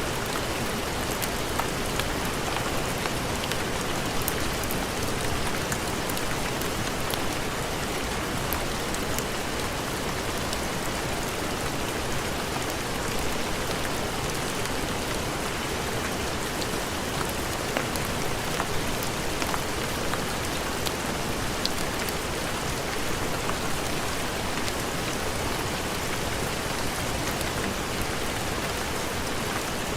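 Steady heavy rain, an even hiss with scattered small sharp ticks of drops.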